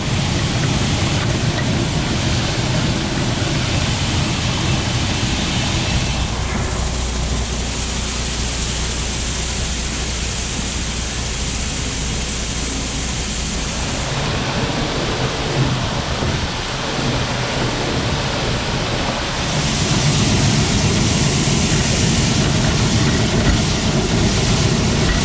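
Grain truck running, a steady low rumble under loud rushing noise, which gets louder again about twenty seconds in.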